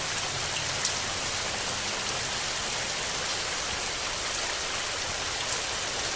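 Steady rain falling: an even hiss of rain on a surface, with a few sharp drop ticks scattered through it.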